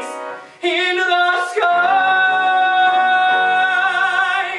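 A male singer ending the song on one long held note with vibrato, after a few short sung notes about half a second in, over accompaniment.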